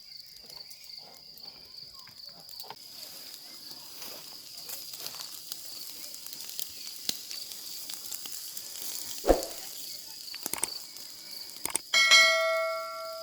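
Steady high chirring of insects, with scattered light clicks and knocks. About nine seconds in there is a sharp thump, and near the end a metal object is struck and rings out clearly before fading over a second or so.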